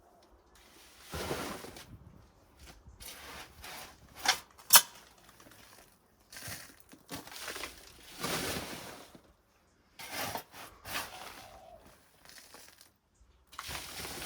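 Garden soil being scooped and tipped into a bag in irregular handfuls a second or two apart, with two sharp knocks about four and a half seconds in.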